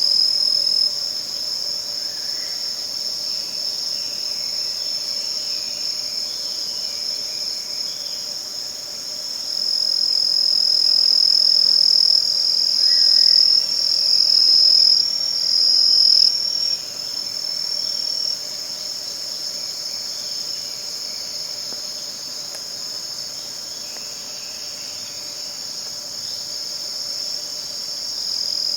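Autumn chorus of crickets and other singing insects, a steady high-pitched trilling that grows louder for several seconds in the middle.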